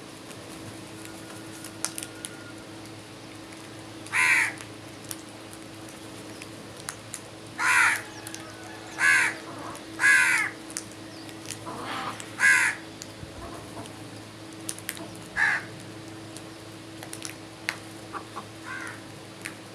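Crows cawing: about five loud, harsh caws each about half a second long and spaced a second or more apart, with a few fainter caws later. A steady low hum runs underneath.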